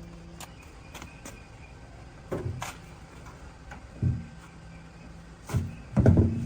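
A series of irregular knocks, about half a dozen, the loudest a quick cluster near the end, over a faint steady hum.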